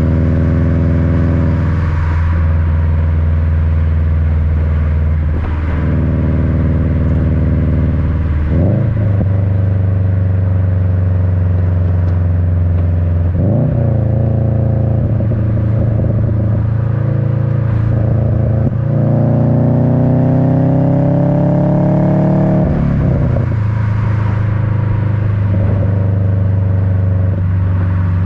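Subaru WRX's turbocharged EJ255 flat-four running through an Invidia N1 dual cat-back exhaust, heard close to the tailpipes while driving: a steady, deep rumble. The engine note shifts a few times, and about two-thirds of the way through it climbs steadily for some three seconds before dropping off sharply.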